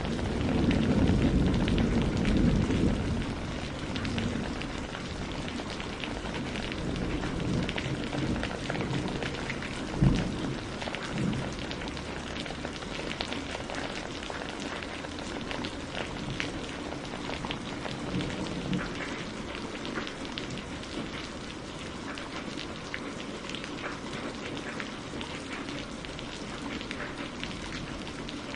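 Steady rain falling on a surface, with many separate drops ticking through it. A low rumble of thunder fades over the first few seconds, and a single sharp thump stands out about ten seconds in.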